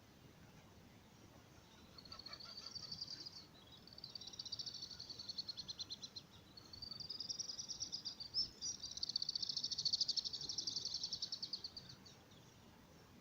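A calling animal giving a high, rapidly pulsed trill in four phrases, the last one the longest and loudest.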